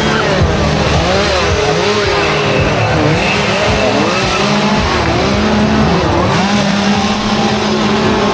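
Engines revving up and down over and over, several at once, their pitch swooping up and falling back in quick overlapping whines. From about five seconds in, a steady hum holds underneath.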